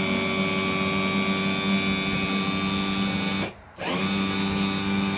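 Electric power-tilt motor of a 125 hp Force outboard running with a steady hum as it raises the engine. It cuts out about three and a half seconds in and starts again a moment later, winding back up to speed.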